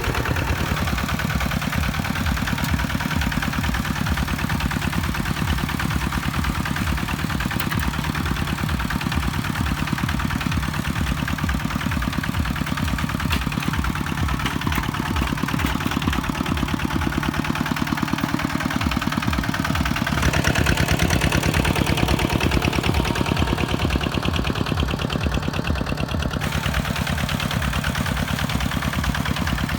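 Kubota tractor's diesel engine running steadily with an even firing beat; the sound grows slightly fuller about two-thirds of the way through.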